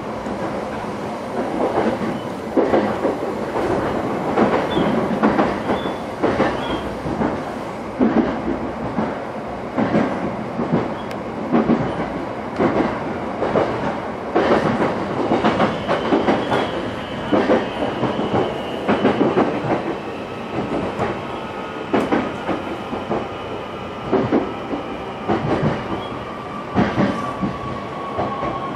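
Interior running noise of a JR East E131 series electric train: steady rumble with repeated clacks as the wheels cross rail joints. From about halfway a thin motor whine comes in and slowly falls in pitch near the end as the train slows approaching its terminus.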